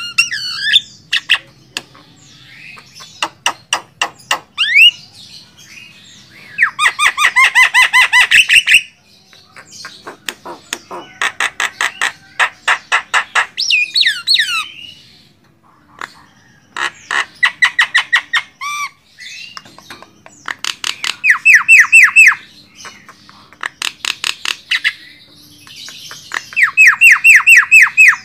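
Javan myna calling loudly in bouts of rapid, harsh repeated notes, each bout lasting one to three seconds. Between the bouts come short whistled notes that slide up and down, and brief pauses.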